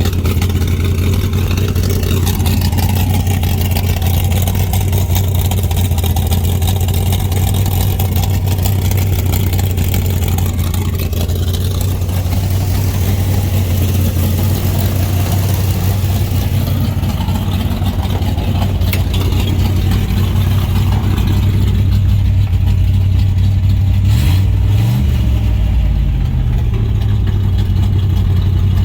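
Third-generation Chevrolet Camaro's engine and exhaust droning loudly and steadily while driving, with a brief rise and fall in engine pitch about 24 seconds in.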